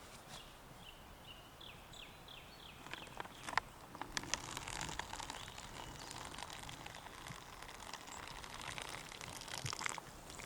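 Hot water being poured into a freeze-dried expedition breakfast pouch: a steady splashing trickle of about six seconds that stops sharply near the end. Before it, a few clicks and short high chirps.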